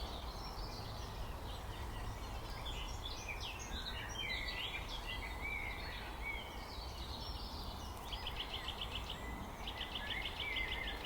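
Several small birds singing at once, a mix of short varied whistles and warbles. About eight seconds in, a fast, even trill starts repeating, over a steady low rumble of wind or distant background noise.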